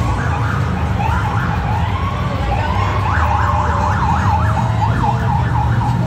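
Police motorcycle sirens sweeping up and down in pitch, the sweeps quickening to several a second about halfway through, over the low rumble of motorcycle engines.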